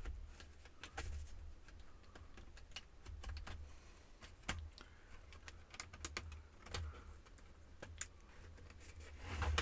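Scattered light plastic clicks and taps, irregularly spaced, as the plastic bezel of a Compaq F700 laptop is pried along its front edge to work its snap-in plastic clips loose.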